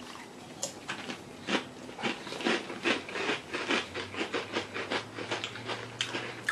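Crisp fried potato sticks being chewed by mouth: a quick, uneven run of crunches.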